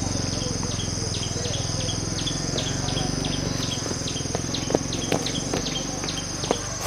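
Insects droning in a steady high tone, with a short chirp repeating about three times a second, over a low steady hum. From about halfway in, sharp clicks and knocks join in.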